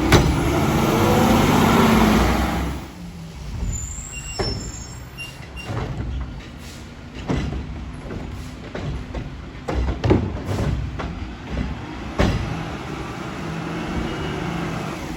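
Front-loader garbage truck with a Curotto Can arm at work: engine revving to drive the hydraulics, then dropping back to a lower run with repeated knocks and clatter and a few short squeaks from the arm and cart, and revving up again near the end.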